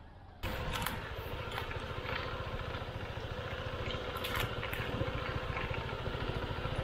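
SYM KRN scooter engine that comes in suddenly about half a second in and then runs steadily at idle, with a few light clicks over it.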